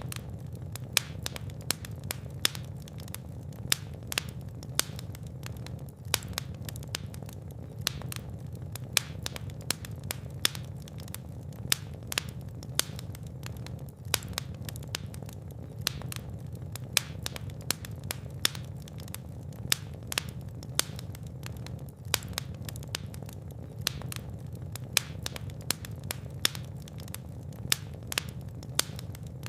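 Fire in a fireplace crackling, with frequent sharp pops and snaps over a steady low rumble of flames.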